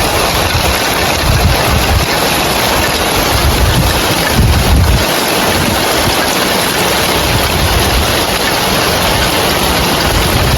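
Heavy rain falling on roof tiles, a steady dense hiss, with wind gusting on the microphone now and then.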